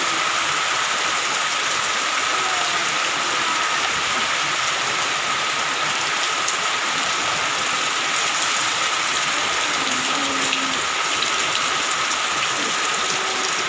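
Heavy rain pouring down steadily: a dense, unbroken hiss, with a faint steady high tone under it.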